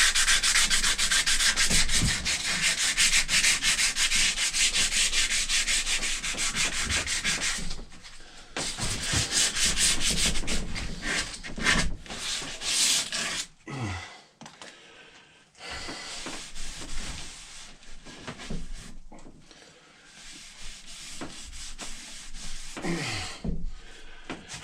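Sandpaper rubbed by hand over an axe's wooden haft in quick back-and-forth strokes. The sanding is steady for about the first eight seconds, then breaks into shorter, quieter strokes with pauses.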